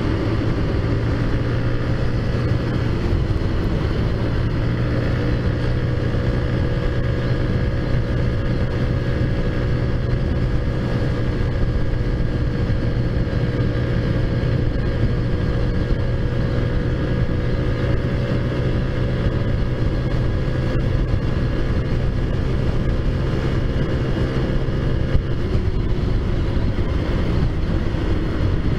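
Taotao Zummer scooter's big-bore-kitted 50cc four-stroke engine running at a steady cruising speed under way, its pitch holding level and dropping a little near the end.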